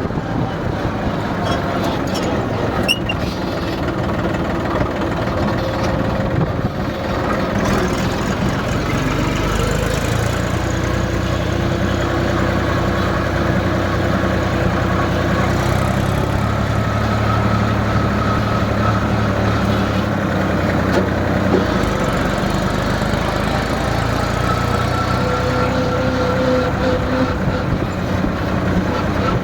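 Tractor engine running steadily, its pitch shifting now and then as the revs change.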